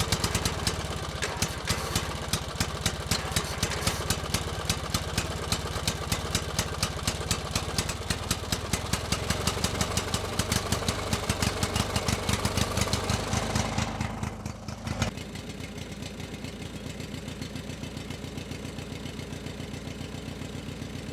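Small engine of a homemade miniature tractor running with a rapid, even beat. About fourteen seconds in it drops to a quieter, steadier run, like an idle.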